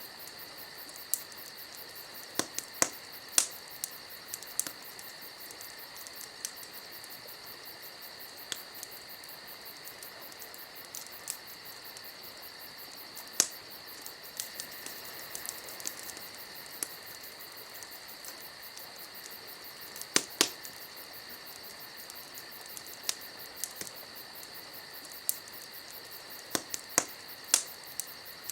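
Wood fire crackling, with scattered sharp pops at irregular moments, the loudest about 20 seconds in. Under it runs a steady high-pitched tone with fast faint ticking.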